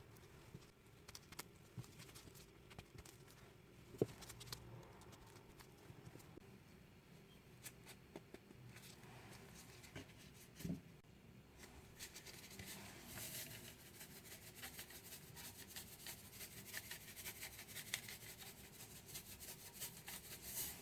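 Faint kitchen preparation sounds: scattered light clicks and knocks of utensils and bowls, then from about halfway a quicker run of small scraping ticks with a hiss.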